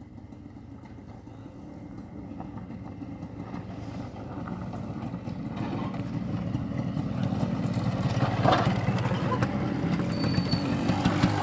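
Motorcycle engine running and growing steadily louder, as if it is approaching or pulling away under throttle, with a short noisy swell near the end.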